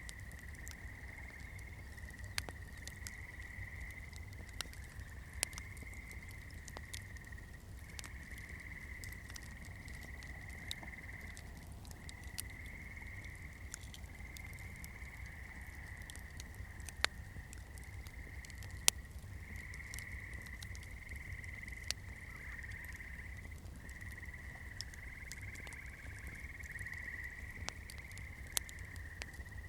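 Campfire crackling, with sharp pops scattered throughout, the loudest two a little past halfway. Under it runs a steady high trilling call in bouts of a couple of seconds with short breaks between, over a low rumble.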